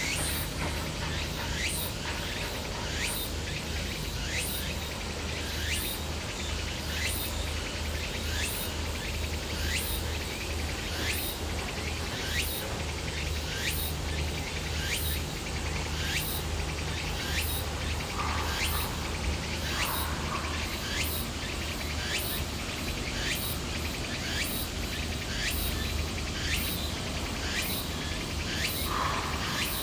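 Insects chirping in a steady, even pulse, about three chirps every two seconds, over a constant low rumble.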